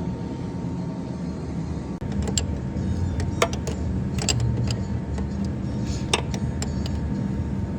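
Jeep Cherokee on the move: a steady low engine and drivetrain drone that picks up a little about two seconds in, with scattered clicks and rattles.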